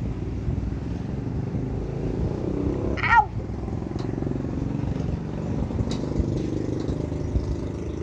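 Steady low rumble of a running vehicle, with a short falling pitched cry about three seconds in.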